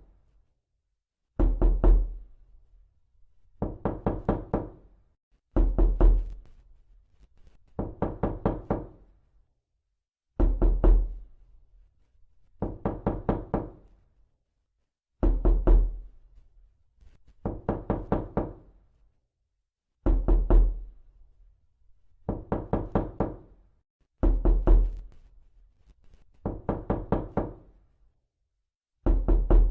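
Repeated knocking: quick runs of five or six knocks, a new run about every two seconds, some opening with a deep thud.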